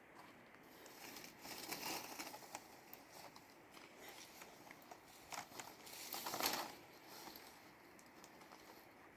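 Rustling, crinkling handling noises in two irregular bouts, the louder one about six and a half seconds in.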